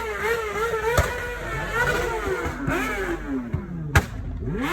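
Car engines revving, their pitch rising and falling, with two sharp cracks, about a second in and near the end.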